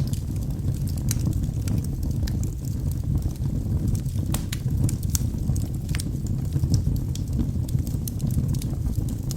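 Wood fire burning in a fireplace: a steady low rumble of the flames with scattered sharp crackles and pops from the burning logs, several a second.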